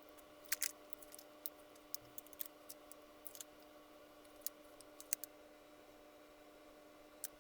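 Scattered light clicks and taps of hands handling small objects, a few more at the start, over a steady low electrical hum.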